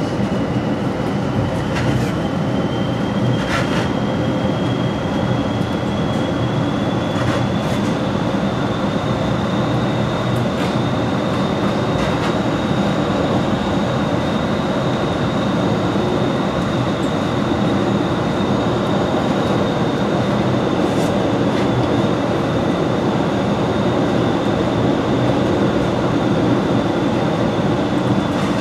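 Metra commuter train running at speed, heard from inside the leading car at the front window: a steady rumble of wheels on rail with a few sharp clicks. A high whine rises slightly over the first several seconds, then holds steady.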